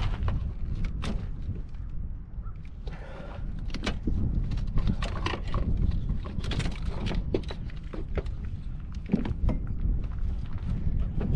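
Scattered clicks, clinks and knocks of hand tools and metal engine parts being handled during engine disassembly, over a steady low rumble.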